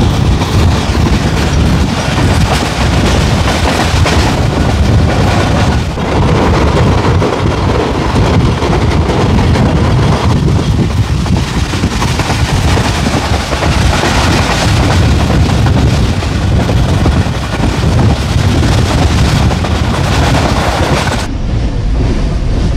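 Passenger train coach running on the line, a loud steady rumble of the moving carriage heard from inside; the coach is a noisy one.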